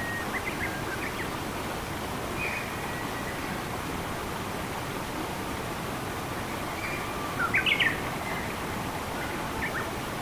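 Steady rushing of flowing water, with a small bird chirping over it in short scattered calls; the loudest is a quick burst of several notes about three quarters of the way through.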